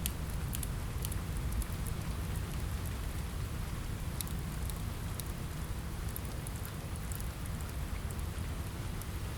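Steady rain, an even hiss over a low rumble, with scattered faint sharp crackles of a wood fire.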